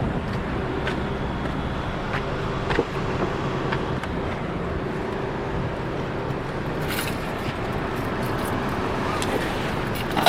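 Steady car road and engine noise, with a few faint clicks.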